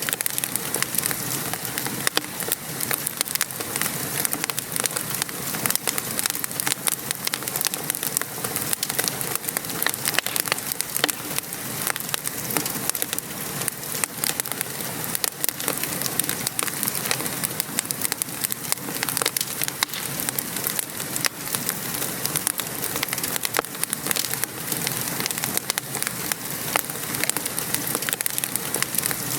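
Steady patter of rain with the frequent sharp pops and crackles of a wood fire burning in a fireplace.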